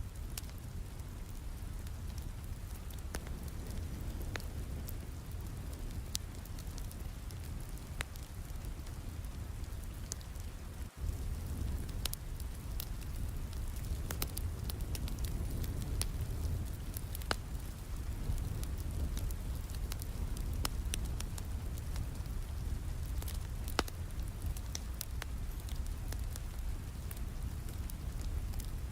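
Steady rain with a wood fire crackling over it, sharp pops coming at irregular moments. The sound briefly dips about eleven seconds in.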